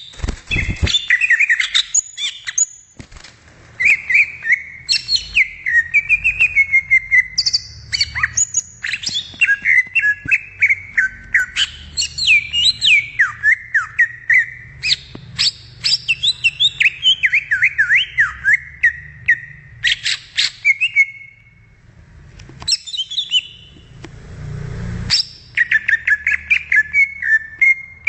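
Green leafbird (cucak ijo) singing a fast, varied song of chirps and sliding whistled notes, almost without a break, pausing briefly about 3 seconds in and again past the 20-second mark.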